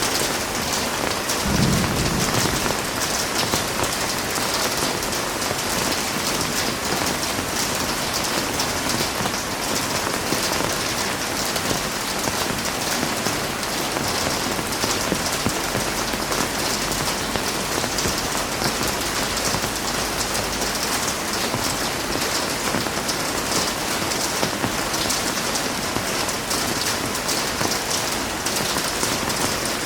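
Heavy rain falling steadily, a dense even hiss of drops, with a short low rumble of thunder about two seconds in and a fainter, deeper rumble in the middle.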